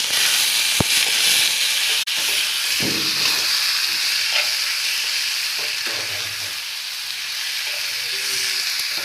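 Onions, tomatoes and spices sizzling in hot oil in a pan while being stirred: a steady frying hiss.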